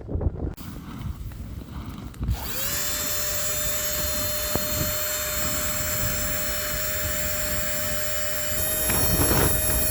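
A small battery-powered mini air pump, the Flextail TinyPump2X, spins up about two and a half seconds in and then runs steadily with a high, even whine. Its pitch steps up slightly near the end. Before it starts there is only low wind rustle.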